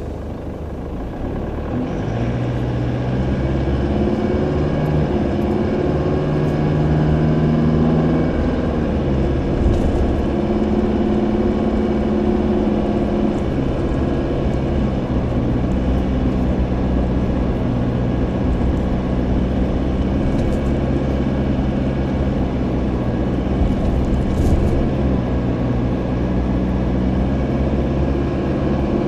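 2009 Ford Ranger PK XLT running, a steady low rumble with an engine note that shifts up and down in pitch, carrying the vibration and rattle noise that the owner is trying to track down. A few faint short clicks come through now and then.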